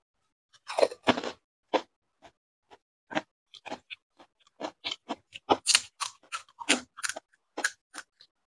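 A person crunching and chewing fuchka (pani puri), the hollow fried shells filled with potato mash and tamarind water. A loud crackling crunch comes about a second in as a whole shell is bitten, then a fast run of crisp chewing crunches.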